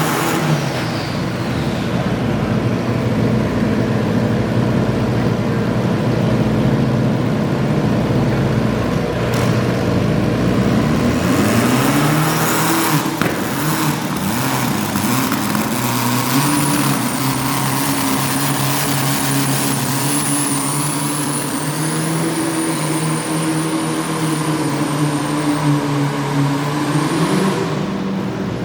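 Pulling garden tractor engine running continuously, its pitch rising and falling several times about halfway through, then holding a steadier, higher note. A thin high whine sits over it for most of the second half.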